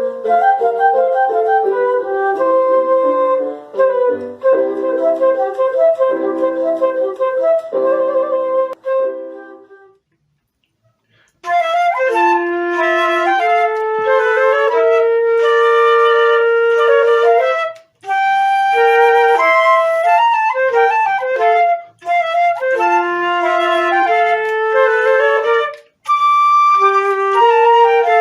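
Two concert flutes playing a duet, two independent melodic lines sounding together. The music stops for about a second and a half around ten seconds in, then starts again.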